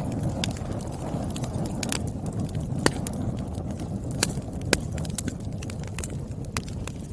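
Wood fire crackling: a steady low rustle of burning logs with frequent sharp snaps and pops, a few of them louder.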